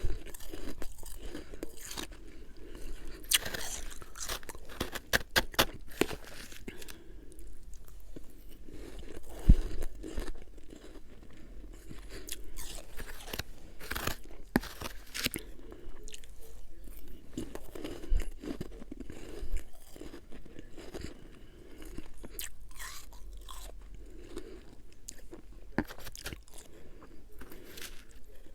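Close-up crunching and chewing of refrozen freezer frost: sharp crackling crunches come in quick runs as bites break the ice, with softer chewing between them.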